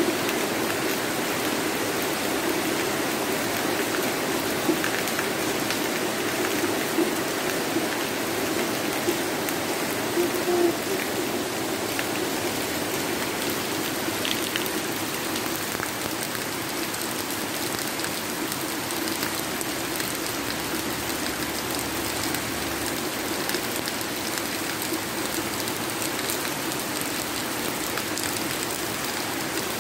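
Heavy rain falling steadily on a wet paved path and foliage, with a stream of runoff water pouring down close by. There are a few louder splashes in the first half.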